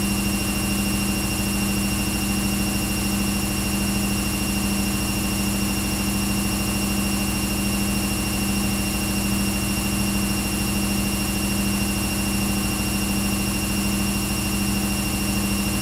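Washing machine running: a steady mechanical hum with a strong low drone and a faint high whine over a hiss.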